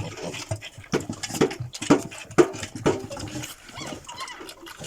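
Piglets eating, grunting and smacking in short bursts about twice a second, with a few faint squeaks near the end.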